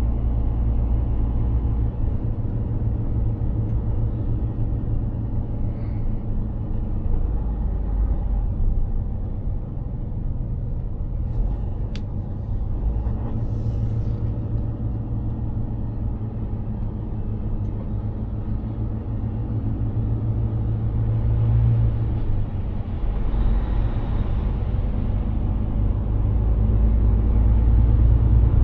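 Mercedes-Benz Actros 2763 truck's straight-six diesel engine running steadily while driving, a low drone with road noise. A swell of hissing noise rises and fades about three-quarters of the way through.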